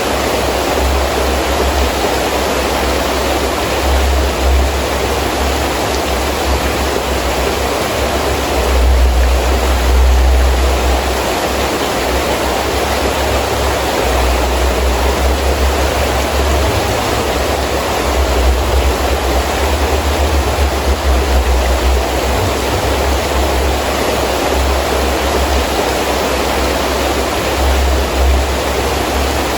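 Heavy rain falling steadily in wind, a constant dense hiss. A deep low rumble swells up about nine seconds in and again between about seventeen and twenty-two seconds.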